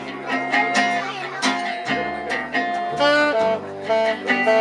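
A live gypsy jazz (jazz manouche) band playing: acoustic guitar chords strummed in a steady rhythm, with a bass line and a sustained melody line on top.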